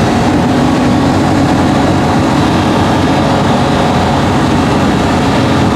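Lamborghini Murcielago LP640's V12 engine with a straight-piped Fi exhaust, running loud and steady at an even pitch.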